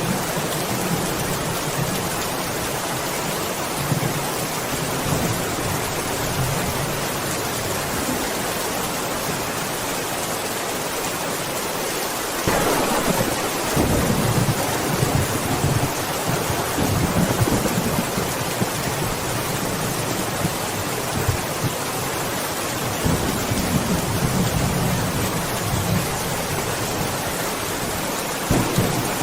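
Steady rain with thunder: the rain hiss runs evenly, and about halfway through a rumble of thunder breaks in suddenly and rolls on for several seconds, followed by a second, shorter rumble later on.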